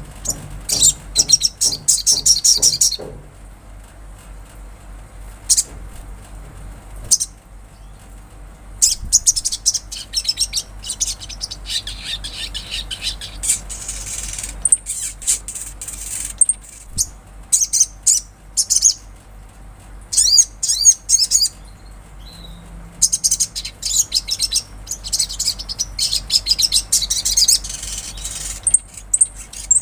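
Sunbird singing: bursts of rapid, high-pitched chirping trills lasting a second or several, broken by short pauses.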